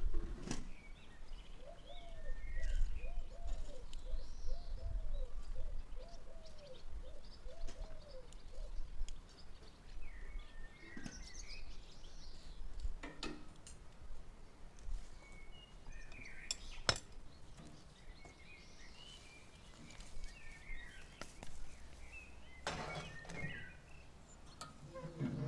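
Small birds chirping and calling at intervals, with a lower call repeated about once a second for several seconds near the start. Wind rumbles on the microphone, and a few sharp clicks come from handling cookware.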